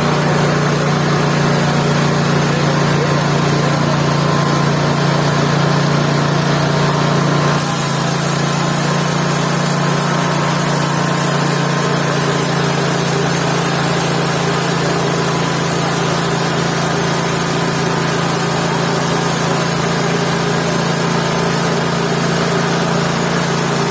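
Mobile band sawmill running steadily under engine power. About a third of the way in, the sound changes abruptly and a high hiss is added.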